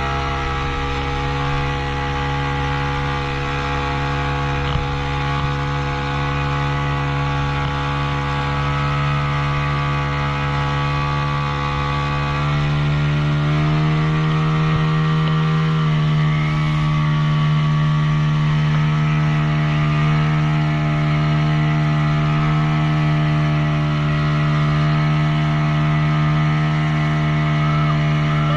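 Boat engine running steadily under load, its pitch rising between about twelve and sixteen seconds in as it speeds up, then holding at the higher speed.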